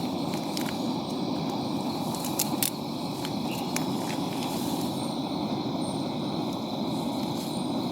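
Heavy rain falling steadily, a dense low patter, with scattered sharp drip ticks in the first three seconds.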